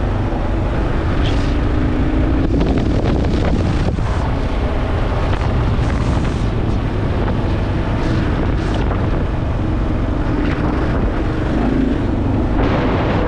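Single-cylinder engine of a Kawasaki KLR650 dual-sport motorcycle running while riding, its engine speed rising and falling a little, with wind buffeting the microphone.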